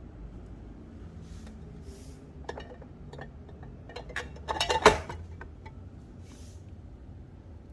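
Kitchen containers clinking and knocking together as they are handled and set down, a few light clicks first, then a quick cluster of clinks about four to five seconds in, with a few soft rustles between.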